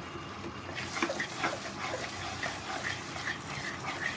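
Tomato-onion masala with freshly added yogurt sizzling in hot oil in a nonstick pan while it is stirred with a spoon, with scattered crackles. The sizzle grows louder about a second in. The yogurt is being fried into the masala until it melts in.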